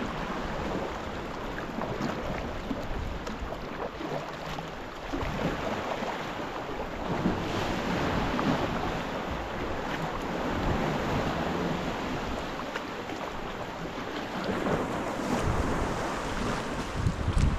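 Sea water washing and splashing around a sea kayak under way, with wind buffeting the microphone in low rumbling gusts.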